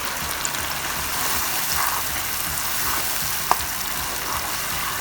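Onion, ginger and garlic masala sizzling steadily in hot canola oil in a frying pan. One sharp click about three and a half seconds in.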